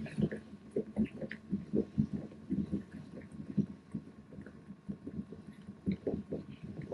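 Washing machine working a load of bedding: irregular low sloshing and thudding of the wet load in the drum, over a faint steady tone.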